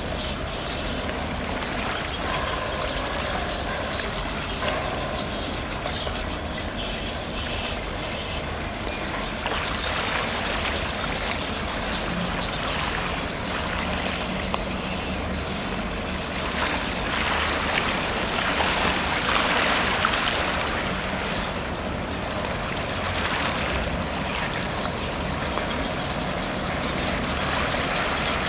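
Container ship passing close by: a steady low engine rumble mixed with the rushing wash of its wake, swelling a little past the middle.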